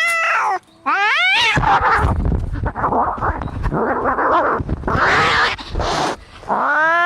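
Cats fighting: a short yowl that rises steeply in pitch, then several seconds of harsh, noisy hissing and screeching, and a new long drawn-out yowl starting near the end.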